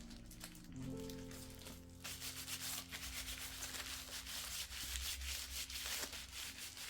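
Soft background music with long held notes; from about two seconds in, a steady scratchy rubbing sound, like brushing or scrubbing, plays over it.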